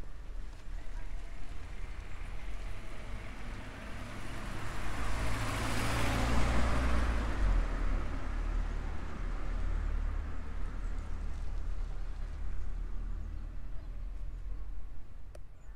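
A car passing by on the street: its tyre and engine noise swells to a peak about six seconds in, then fades away, over a steady low rumble.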